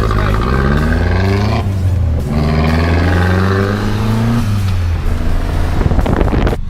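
Car engine accelerating hard through a gear change: the revs climb, break off briefly about two seconds in for the shift, then climb again before easing off at about four and a half seconds.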